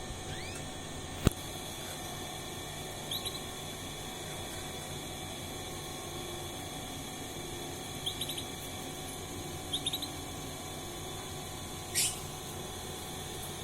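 Young canary, about a month and a half old, giving a few short, high chirps in small clusters: the sparse twittering of a bird just learning to sing. There is a single sharp click about a second in, and a quick rising call near the end, over a steady low hum.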